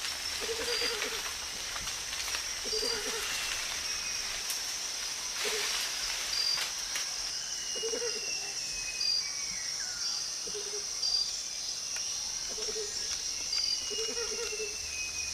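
Tropical rainforest ambience: a steady high-pitched insect drone, short low calls repeated every second or two, and a few thin falling bird whistles from about seven seconds in.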